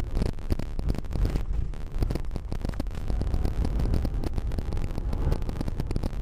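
Wind buffeting the microphone: a low, irregular rumble with gusty bumps throughout.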